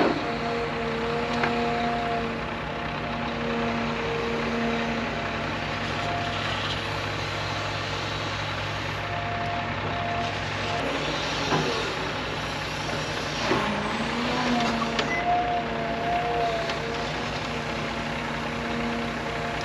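Heavy truck's engine running steadily, with a pitch that dips briefly and climbs back about two-thirds of the way through.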